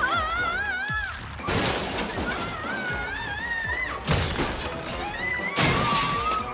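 Cartoon slapstick sound effects: repeated bursts of crashing and shattering, each overlaid with a warbling high-pitched tone, over background music.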